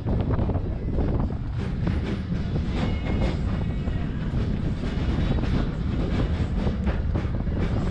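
Train running along the track, heard from aboard an open passenger car: a steady low rumble with repeated clicks of the wheels over the rails and wind on the microphone. A brief high-pitched tone about three seconds in.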